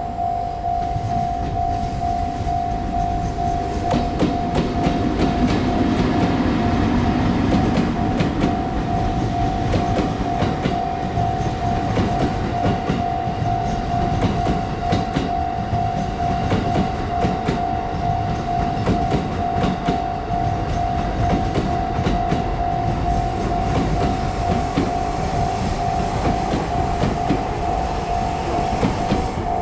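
A locomotive-hauled train, an EF81 electric locomotive towing a 215 series electric multiple unit, passing over a level crossing with its wheels clattering over the rail joints. A Japanese level-crossing warning alarm rings steadily on one high tone over it.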